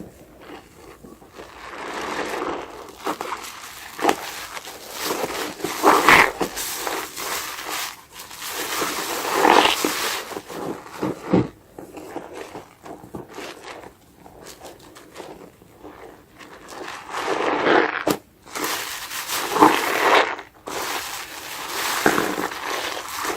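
A sponge loaded with soap foam being squeezed and worked by hand, giving wet, foamy noise in irregular bouts a few seconds apart, with small clicks in between.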